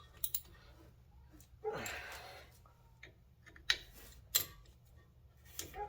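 Sharp metallic clicks and clinks of brake parts and hand tools being handled, a few scattered taps, with a short noisy rush about two seconds in.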